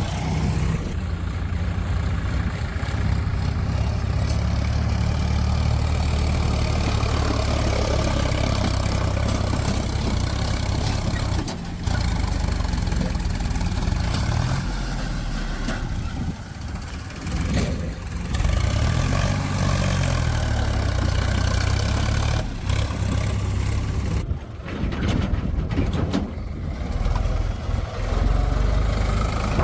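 Heavy diesel engines of a JCB backhoe loader and tractor running steadily while loading soil, with the engine pitch rising and falling once about two-thirds of the way through.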